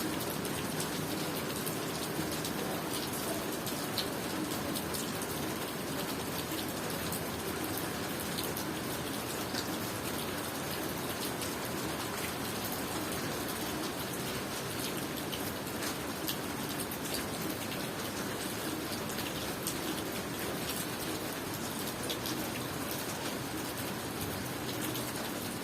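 Steady tropical rain falling, with many individual drops ticking sharply on surfaces over an even hiss.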